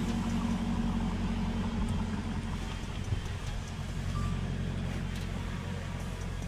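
A car engine running steadily at idle, a constant low hum.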